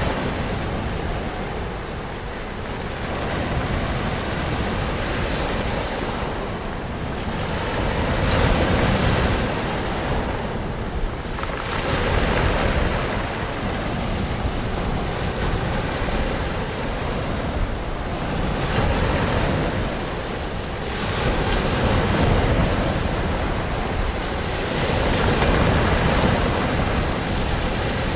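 Ocean waves breaking on a shore, a continuous rush of surf that swells and eases every few seconds.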